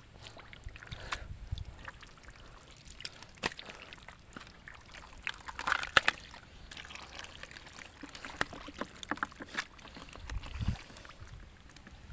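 Scattered splashes and sloshing in shallow pond water, with irregular short clicks and knocks and a busier stretch of splashing about halfway through.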